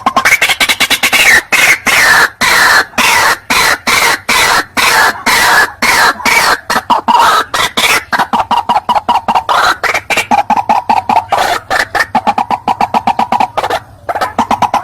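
White-breasted waterhen (ruak-ruak) calling: a loud, rapid series of harsh clucking notes. The pitch slides down at first, then the notes quicken into a steady fast chatter. This is the territorial call used as a lure for wild waterhens.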